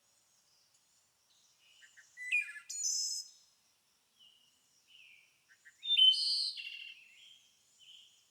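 A songbird singing short, varied high phrases: two main bursts of quick notes about four seconds apart, with a few softer notes between.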